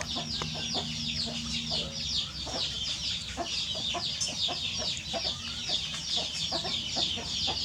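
A dense, continuous chorus of high, short peeping chirps from chickens, with scattered light clicks and taps beneath.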